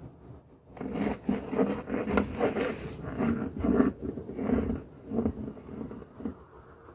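A run of short, irregular scraping and rubbing sounds, two or three a second, that stop about a second before the end.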